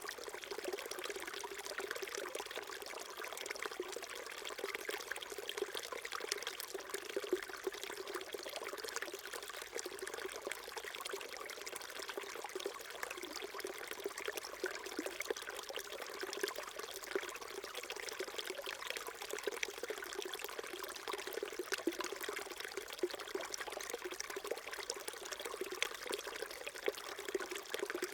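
Small stream trickling and splashing steadily over stones, a continuous babble of water.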